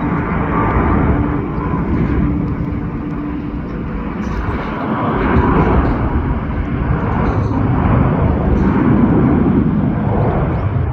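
Jet airliner's engines, a loud steady rumble that swells slightly about halfway through.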